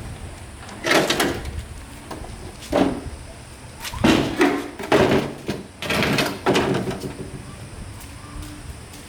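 A series of loud knocks and bangs, about five over six seconds.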